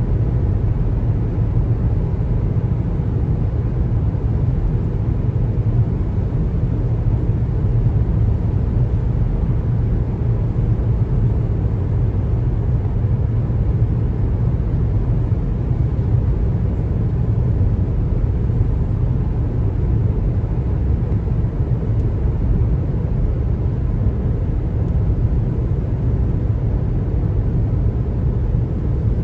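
Steady road noise of a car driving on a highway: an even, low rumble of tyres and engine with no distinct events.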